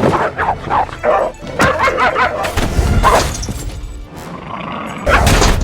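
A dog barking in quick, sharp barks over film music, followed by two loud crashing noise bursts, one midway and one near the end.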